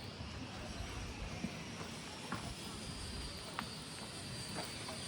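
Quiet street ambience: a steady background hum with a faint high whine, and light footsteps on the pavement about once a second.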